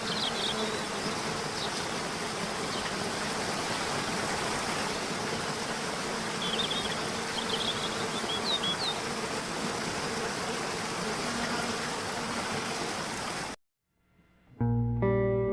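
Outdoor nature ambience: a steady rushing noise with a faint low drone, and brief high bird chirps right at the start and again in the middle. It cuts off abruptly near the end, and after a short silence guitar music begins.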